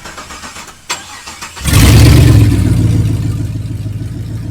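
Batmobile replica's rear-mounted supercharged Ford Raptor engine being started: a click about a second in, then the engine fires just under two seconds in and runs loudly. It settles into a steady idle.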